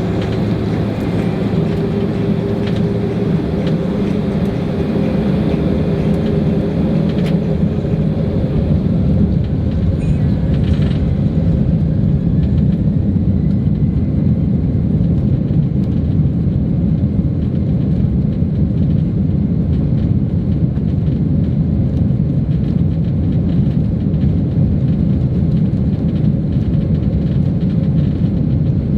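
Boeing 767-300 jet engines at high thrust for takeoff, heard from inside the economy cabin: a loud, steady rumble that builds over the first several seconds.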